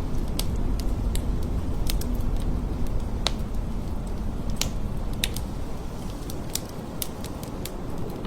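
Blizzard wind blowing in a steady low rumble, with scattered sharp crackling ticks throughout.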